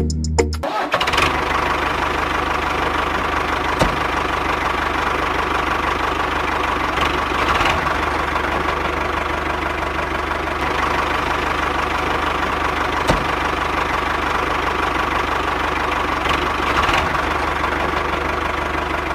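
A small motor running steadily, with a constant high tone over a low hum. It starts just under a second in, as the music cuts off.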